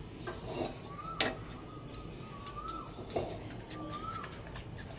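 A bird calls a short whistled note that rises and falls, three times about a second and a half apart. Light clicks and clinks of kitchenware come in between, the sharpest about a second in.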